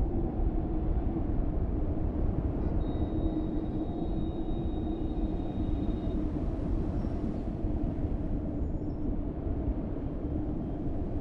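Strong wind from Cyclone Dana blowing steadily: a continuous low rushing noise with a faint steady howl running through it.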